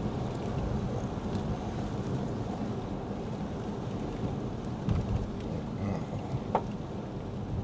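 Lexus ES 350 F Sport driving on a wet road, heard from inside the cabin: a steady low rumble of tyre and road noise with rain. A brief thin tone sounds about six and a half seconds in.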